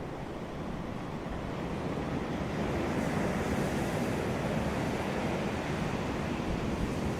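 Surf breaking on a beach: a steady wash of waves that swells a couple of seconds in, with wind noise on the microphone.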